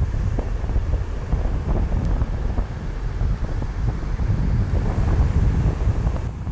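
Ocean surf washing on a beach, with strong wind buffeting the microphone in a constant low rumble. The wash of the surf swells about two-thirds of the way through.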